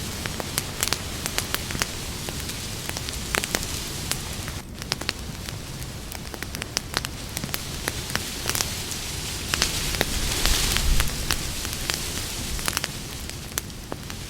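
Wood campfire burning: a steady hiss of flames with frequent, irregular crackles and pops. The crackling gets louder for a moment about ten seconds in.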